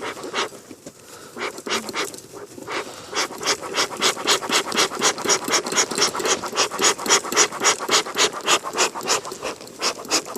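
Bee smoker bellows pumped in quick, even puffs, becoming steady and stronger about three seconds in: the smoker is being worked to get its smouldering fuel going again after it had nearly gone out.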